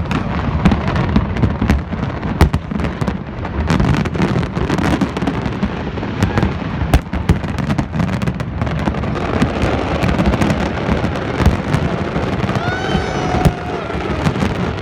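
Fireworks display: a dense, continuous barrage of bangs and crackling shell bursts, with sharp reports many times a second over a constant low rumble.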